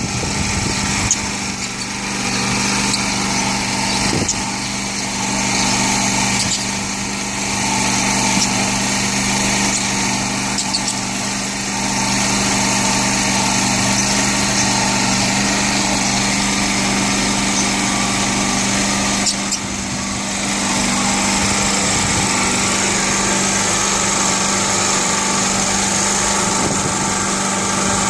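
A small motor running with a steady hum that holds one pitch throughout, with a few faint, short, high chirps from pet lovebirds above it.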